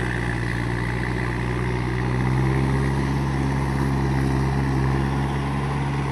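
Mahindra 585 tractor's diesel engine running steadily at a constant speed.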